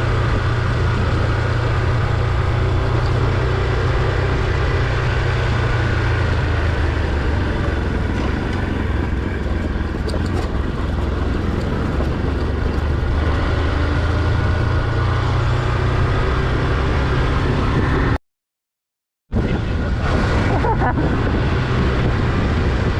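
Motorcycle engine running steadily while riding, a continuous low drone with road noise. The sound cuts out completely for about a second near the end.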